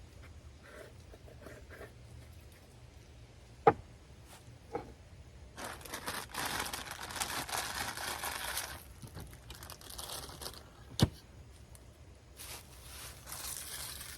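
Crinkling and rustling of packaging being handled, in two stretches, with a few sharp knocks between them.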